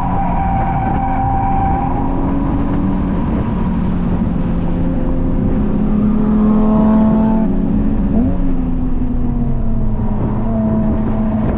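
Honda Civic Type R FK8's turbocharged 2.0-litre four-cylinder running under load at speed, with steady road and wind noise. About five seconds in, its pitch rises as the car accelerates, then drops back near eight seconds.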